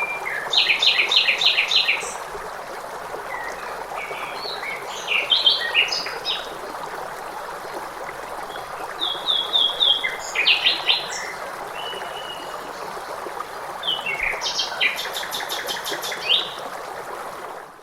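A songbird singing short phrases of rapid, repeated high notes, four times, a few seconds apart, over the steady rush of a flowing stream.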